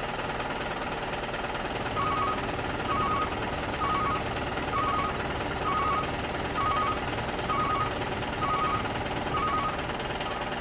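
Toy remote-control truck running with a steady mechanical hum. From about two seconds in, a short high beep sounds about once a second.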